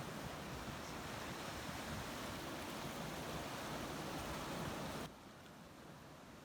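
Recorded ocean surf: a steady wash of waves that drops away abruptly about five seconds in, leaving a fainter hiss.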